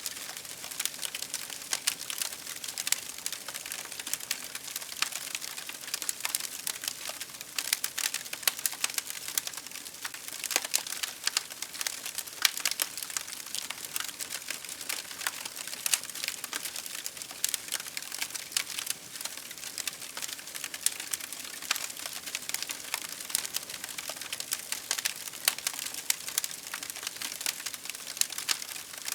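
Wood fire crackling: a dense, irregular run of sharp pops and snaps over a soft hiss of burning.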